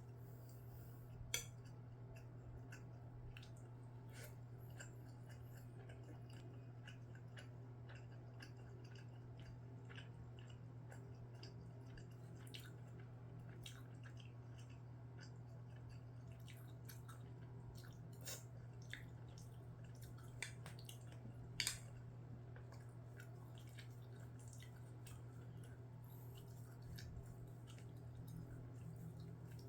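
Soft close-up eating sounds: quiet chewing with many small clicks, and a few sharper taps about a second and a half in and again past the middle, over a steady low hum.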